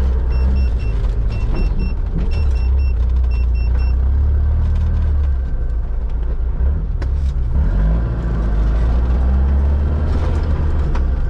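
Mitsubishi Pajero off-road competition vehicle's engine running as it drives along a rutted forest trail: a deep, steady rumble that eases about five and a half seconds in and builds again about two seconds later. Over the first four seconds, a short electronic beep sounds in quick groups of three.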